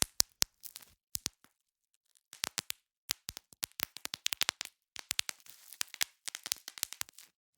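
Bubble wrap being popped: sharp pops and crackles at an irregular pace, some in quick runs, with a short pause between about one and a half and two seconds in.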